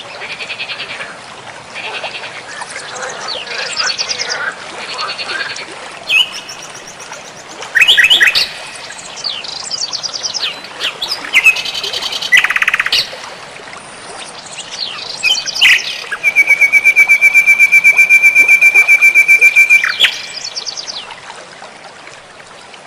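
Wild songbirds singing and chirping, with one loud, rapid, even trill held for about four seconds a little past the middle.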